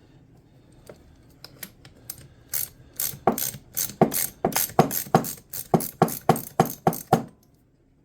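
Socket ratchet clicking in a run of quick strokes, speeding up to about four clicks a second, as the chainsaw's bar nut is backed off after being broken loose, then stopping about seven seconds in.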